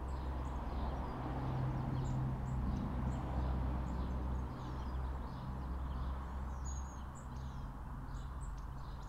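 Small birds chirping at intervals with short, high calls, over a steady low hum.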